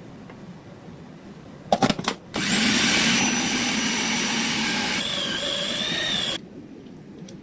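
An electric kitchen blender or mixer grinder, set on its base with a few knocks, then run in one burst of about four seconds. Its whine changes note partway through, and it stops abruptly.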